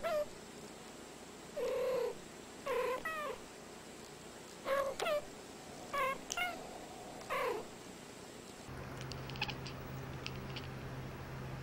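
Two domestic cats trading short meows, about six brief calls over eight seconds, several bending up or down in pitch like a back-and-forth conversation. After about nine seconds the calls stop and only a steady low hum with a few faint clicks remains.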